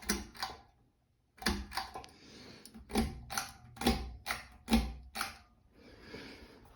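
A series of about ten sharp clicks and knocks at uneven intervals, with brief rustling between them, over a faint steady low hum.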